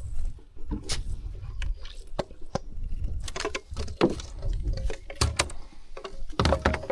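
Close handling noise: irregular clicks, knocks and rustles, strongest around four and five seconds in, over a steady low rumble.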